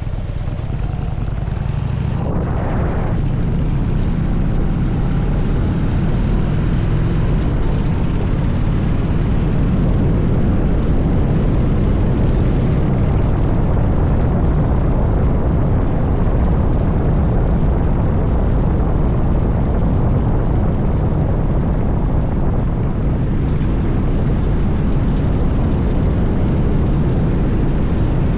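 Harley-Davidson Dyna Super Glide's V-twin engine running steadily while the bike is ridden, a dense low rumble that grows louder over the first few seconds.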